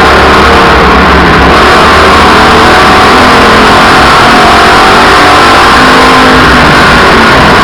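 Race cars' engines running flat out around a short oval track, several engines overlapping at different pitches. The sound is loud and steady, pressed right up against full scale.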